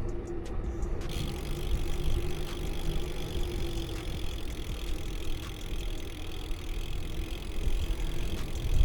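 Bicycle riding noise: a steady low rumble of wind on the microphone, joined about a second in by a steady hiss of riding on pavement.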